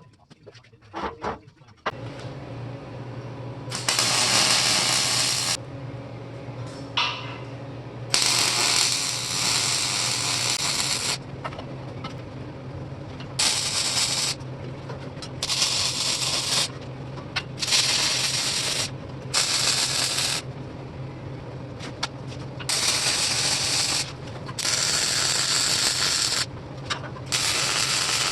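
MIG welder laying short weld beads: a steady electrical hum with about nine bursts of crackling arc hiss, each one to three seconds long with brief pauses between.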